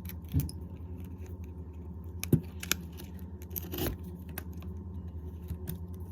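Metal prying tool scraping and clicking at the edge of an iPhone XS Max's screen as the display is pried away from the frame: scattered small ticks, with a sharper click a little past two seconds in and another near four seconds. A steady low hum runs underneath.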